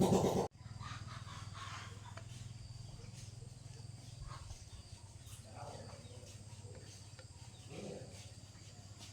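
Kubota engine running, then cut off abruptly about half a second in, leaving a faint steady low hum with a few scattered faint sounds.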